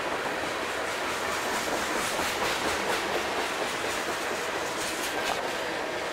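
A train rolling past with steady wheel-on-rail noise, its wheels clacking over rail joints, with a cluster of sharp clicks about two to three seconds in and again about five seconds in.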